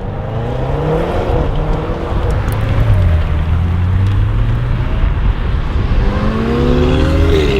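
Mercedes-AMG A45 S's turbocharged four-cylinder engine through a Milltek straight-pipe exhaust with the particulate filter deleted, running loud. Its pitch rises and falls with the revs, holds low in the middle and climbs again near the end.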